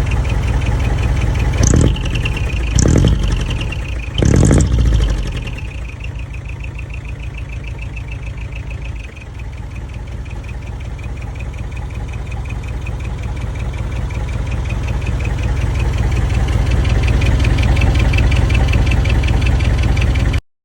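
Diesel engine of a decorated dump truck running through a manifold-split (mani-wari) exhaust, with a rapid, rattling exhaust beat. Three short revs come in the first five seconds, then it settles back to idle, which grows slowly louder toward the end.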